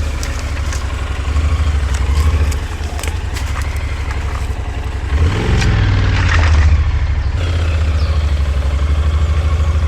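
Loud motorcycle engine running with a fast, even low rumble, swelling louder about five seconds in.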